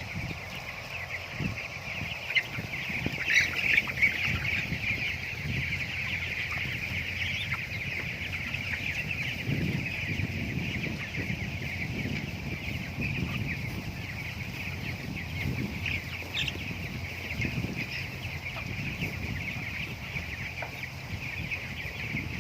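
A flock of broiler chickens calling all at once, a steady chatter of many overlapping short calls.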